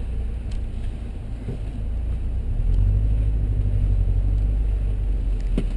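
Car on the move: a low engine and road rumble that grows louder about two and a half seconds in.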